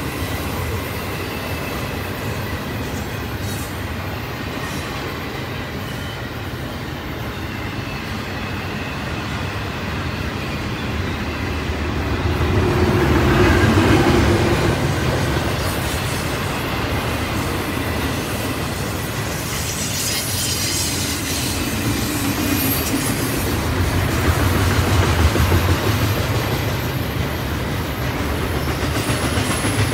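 Double-stack intermodal container well cars rolling past at speed: a steady rumble of steel wheels on the rails with a faint high wheel squeal, swelling louder about midway and again near the end.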